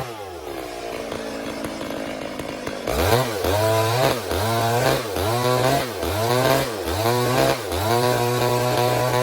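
Stihl MS 382 two-stroke chainsaw drops from high revs to idle at the start and idles for about three seconds. It is then revved up and down about eight times in quick succession before holding at high revs near the end.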